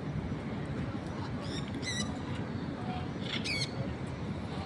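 Sun conure giving two short, squeaky, wavering calls, about two seconds apart, over a steady low background rumble.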